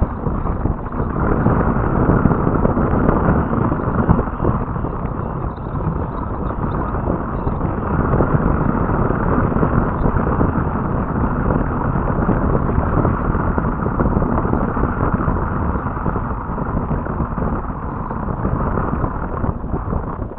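Wind buffeting an outdoor nest camera's microphone: a loud, steady rushing rumble that rises and falls a little.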